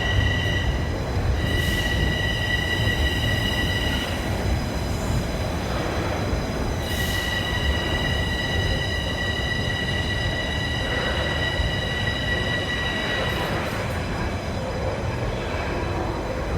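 Subway train rumbling at the platform, with a high steady whine of several pitches together that comes and goes: briefly at the start, for about three seconds soon after, and for about six seconds in the middle.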